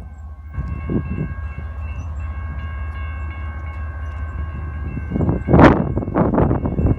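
Freight train passing: diesel locomotive rumble with a set of steady high tones over it. Wind buffets the microphone in loud gusts from about five seconds in.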